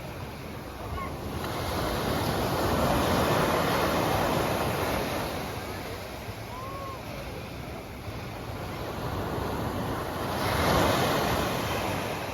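Sea waves washing onto the shore, a steady surf that swells twice, about three to five seconds in and again near the end.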